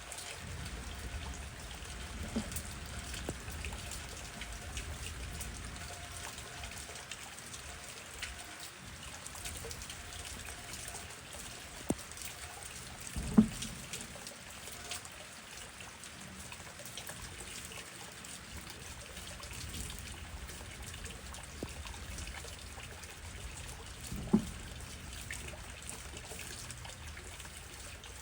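Steady rain with water trickling and dripping, many small drops ticking. A couple of louder single drips stand out, one about halfway through and one near the end.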